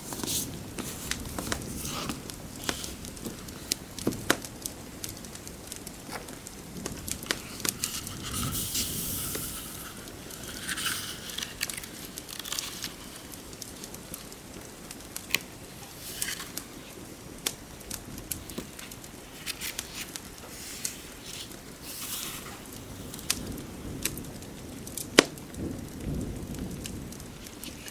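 Fireplace ambience: a wood fire crackling with irregular sharp pops over a steady hiss of rain.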